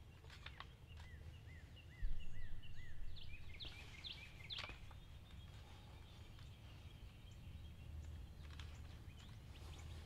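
A bird calls a quick run of about six short, repeated arching notes, roughly three a second, over outdoor field ambience. A low rumble jumps up sharply about two seconds in, and a few sharp clicks follow around four seconds in.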